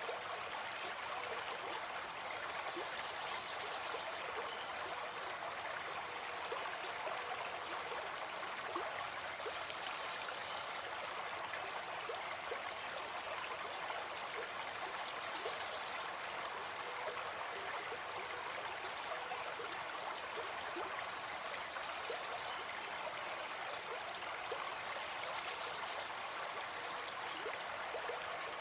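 Gentle forest stream flowing steadily, a continuous rush of water with small gurgles and trickles in it.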